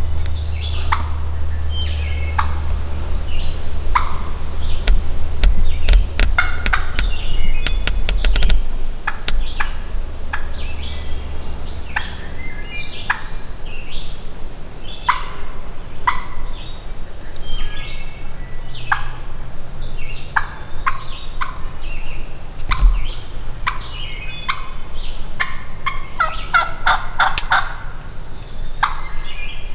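Wild turkey gobbling, with a rattling gobble near the end, among many short chirping bird calls.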